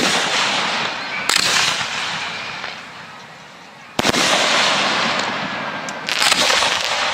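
Professional display fireworks going off: four sudden loud bangs, the first at the very start, then one a second later, one about four seconds in and one near the end. Each trails off in a long crackling hiss.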